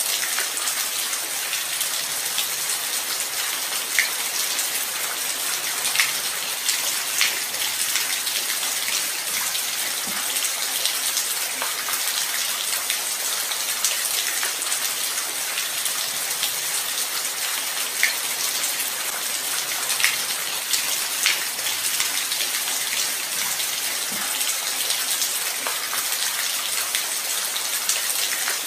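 Light rain falling steadily, a dense even hiss with occasional sharper drop hits standing out, a few close together around six to seven seconds in and again near twenty seconds.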